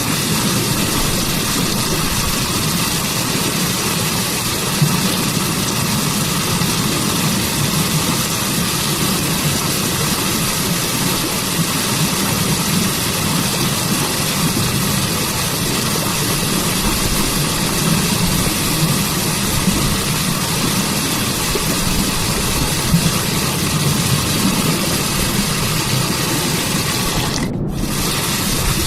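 Waterfall rushing steadily, an even roar of falling water with a deep low rumble under a bright hiss. The hiss dips briefly near the end.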